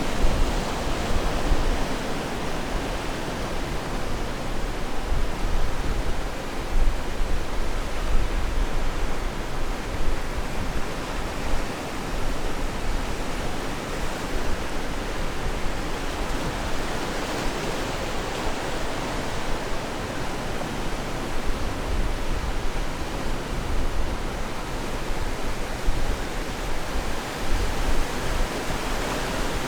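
Ocean surf washing onto the shore: a steady rush of breaking waves with small rises and falls in level.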